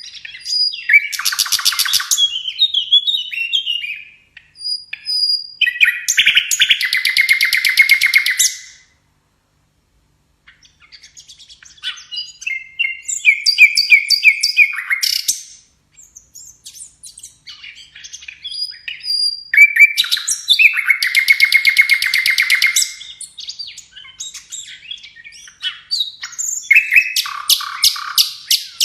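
A sikatan londo songbird singing in loud, varied phrases of rapid trills, chattering notes and whistles, each lasting a few seconds, with short pauses between them. It is a loud, busy 'gacor' song of the kind used as masteran to teach caged birds.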